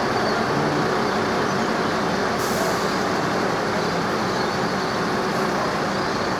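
Steady rumble of a heavy vehicle's engine, with a short burst of hissing air about two and a half seconds in.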